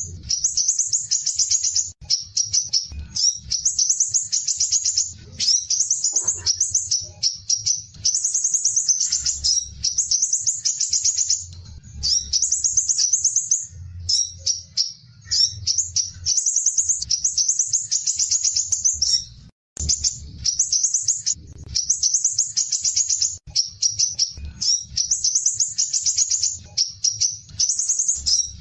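Olive-backed sunbird (kolibri ninja) singing its fast 'besetan' song. It gives rapid, high, buzzy trills in phrases of one to two seconds, repeated with only short breaks, over a faint low hum.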